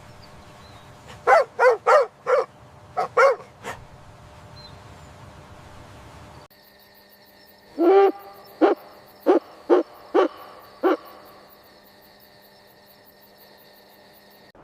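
Two series of short, pitched animal calls, each a quick run of about six calls. The background changes abruptly between them.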